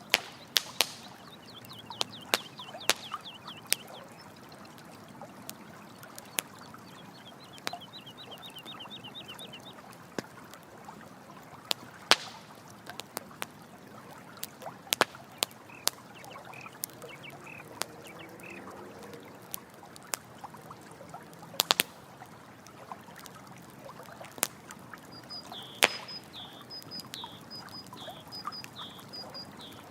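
Campfire crackling with frequent sharp pops over a steady hiss of running water. Short runs of rapid high chirps come in near the start, about eight seconds in, and again near the end.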